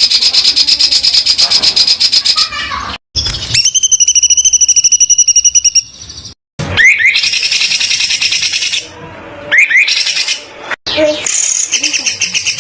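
Songbird 'tembakan' song: harsh, very rapid trills of high notes repeated many times a second, in several spliced bursts that cut off abruptly between them, with a few rising chirps in between.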